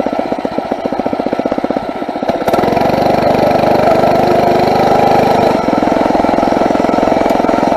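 Four-stroke motorized bicycle engine running at low revs with each firing stroke distinct, then the throttle opens about two and a half seconds in and it runs louder and steadier, easing off slightly a few seconds later.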